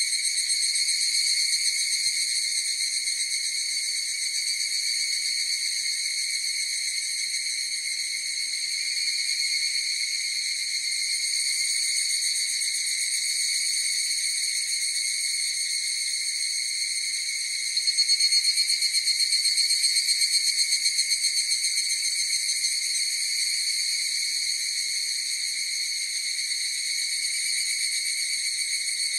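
A chorus of higurashi, the evening cicada (Tanna japonensis), calling steadily with a high, rapidly pulsing ring. About two-thirds of the way through, one nearer call swells louder for a few seconds, then eases back into the chorus.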